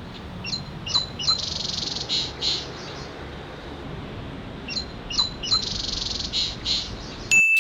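A small songbird sings the same phrase twice: three quick, sharp chirps followed by a buzzy trill. A steady hiss runs underneath. Near the end a sudden steady high-pitched tone starts with a click.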